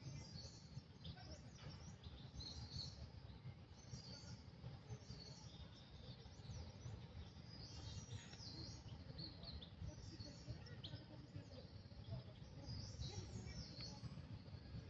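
Faint bird chirps and short calls, scattered through the whole stretch over a steady low background rumble.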